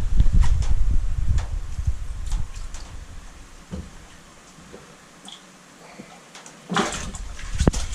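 Wind rumbling on the microphone with light handling clicks, then a brief splash of water near the end.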